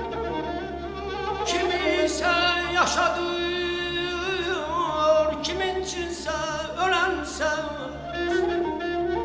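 Mugham singing: a solo voice in a wavering, heavily ornamented line over sustained bowed strings.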